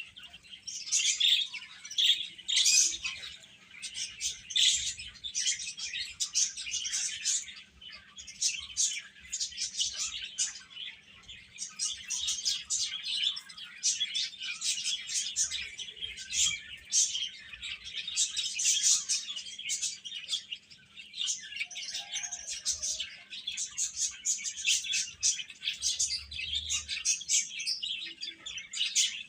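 Chicks (baby chickens) peeping: a dense, unbroken stream of short high chirps from several birds at once, overlapping.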